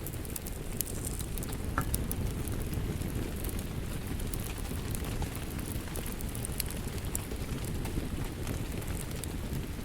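Crackling wood fire with scattered sharp pops, over a steady hiss of rain.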